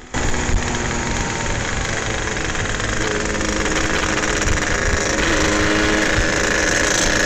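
Yamaha RX-King two-stroke single-cylinder motorcycle engine running steadily on the move, with wind rumbling on the microphone.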